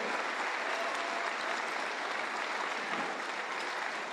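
Theatre audience applauding, steady clapping throughout.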